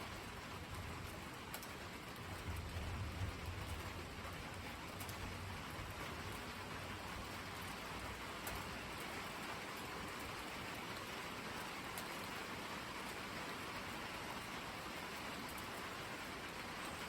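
Steady rain falling, an even hiss, with a low rumble swelling briefly a couple of seconds in.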